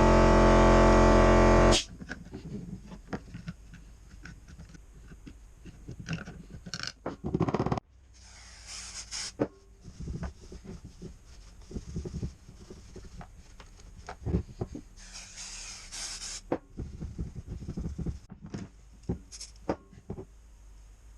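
Clicks, knocks and scrapes of hand work on an old Sachs-Dolmar chainsaw, with two hissing bursts lasting a second or two each. A loud, steady, pitched sound stops abruptly about two seconds in.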